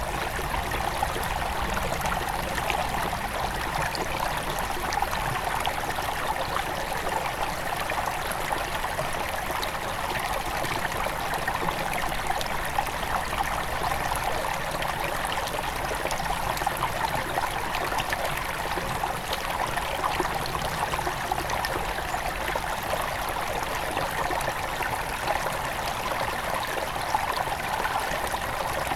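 Small forest river near its headwaters, flowing steadily: a constant, even rush of running water.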